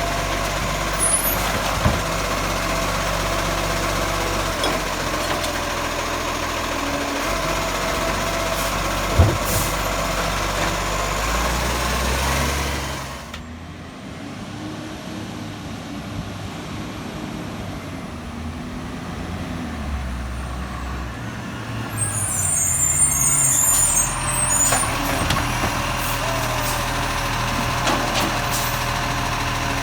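Garbage truck's diesel engine running, dropping much quieter about a third of the way through, with slow rises and falls in pitch, then louder again, with a short hiss near two-thirds through.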